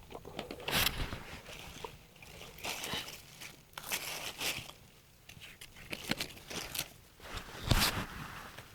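Close-up eating sounds: someone chewing and crunching on ribs in short, irregular bites, with the loudest crunches about a second in and near the end.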